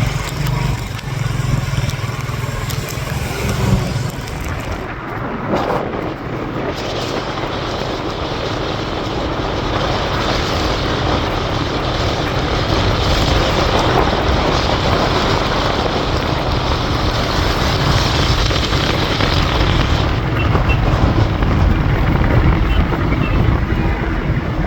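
Royal Enfield motorcycle being ridden, its engine running under a steady rush of wind and road noise; the engine's low beat is strongest in the first four seconds.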